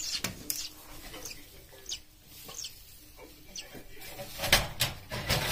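Nestling chimney swifts giving short, high chirps, roughly one a second, with two louder knocks about four and a half seconds in.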